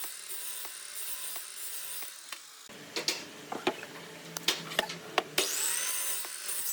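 Wood being worked with tools: a steady rasping, then about three seconds in a run of sharp knocks and taps, then a steady rasping again.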